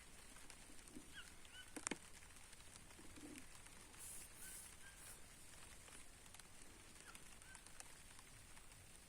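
Faint birds calling in short chirps a few times, over light patter of rain with scattered drip ticks; one sharper tick comes nearly 2 seconds in.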